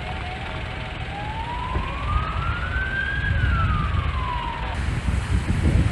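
An emergency vehicle siren gives one slow wail, rising in pitch and falling back, then cuts off suddenly. A low rumble runs under it.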